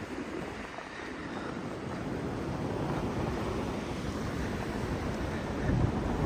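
Blizzard wind blowing, a steady rushing noise with gusts buffeting the microphone, growing slightly louder after the first second.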